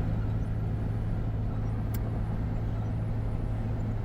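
Car engine running, a steady low hum with road rumble, and a single sharp click about two seconds in.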